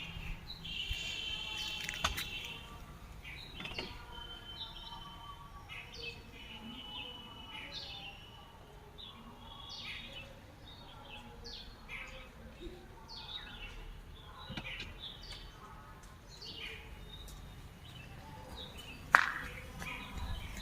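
Small birds chirping and trilling in short, repeated calls, over a low steady rumble, with one sharp loud knock about 19 seconds in.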